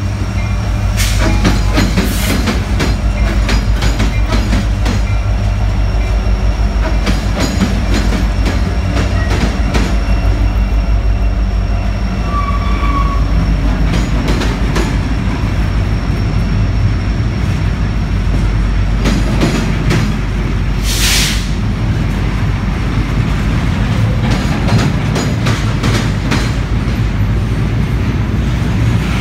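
Freight train passing close by: Kansas City Southern de Mexico diesel locomotives at first, then double-stack container well cars rolling past with a steady low rumble and continual clicking of wheels over rail joints. A brief high hiss comes about two-thirds of the way through.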